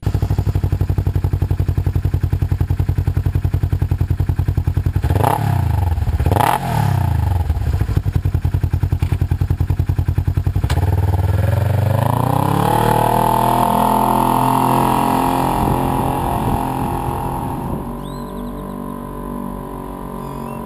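Polaris RZR XP900's parallel-twin engine through a Vance & Hines dual exhaust, running at low revs with a pulsing beat, then two quick throttle blips about five and six seconds in. Around eleven seconds in it revs up and holds high revs, easing off near the end.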